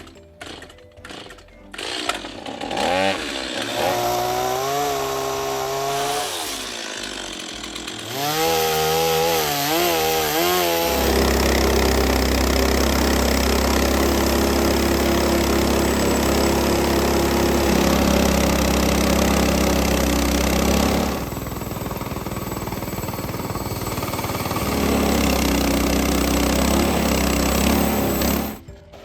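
Small gasoline engine revving up and down, then running steadily at high speed for about ten seconds while sawing wood. It eases briefly, runs again, and cuts off abruptly near the end.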